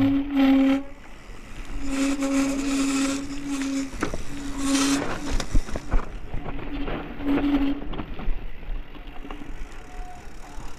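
Mountain bike on rough ground: the rear freewheel hub buzzes in several spells as the rider coasts and stops between them, over rattles and knocks from the bike and wind noise.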